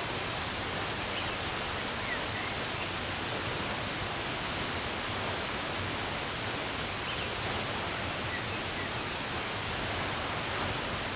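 Steady rush of running water, with a few faint, brief bird chirps over it.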